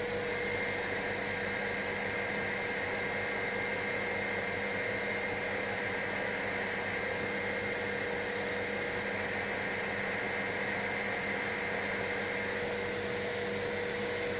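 Helicopter in cruising flight, heard from inside: a steady, unchanging hiss with a low hum and a higher whine held at constant pitch.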